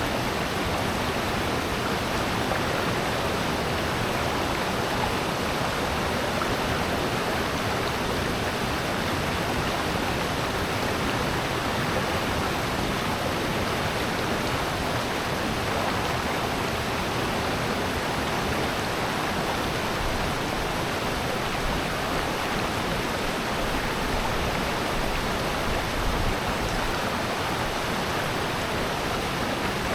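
Mountain stream rushing over rocks in a gorge, a steady, even rush of water.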